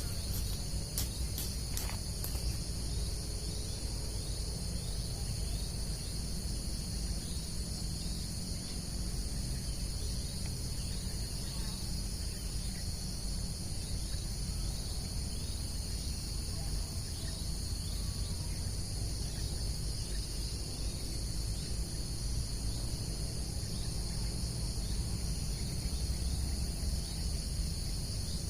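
Steady, unbroken chorus of insects such as crickets, a continuous high-pitched trill layered in two pitches, over a low steady rumble, with a few sharp clicks in the first two seconds.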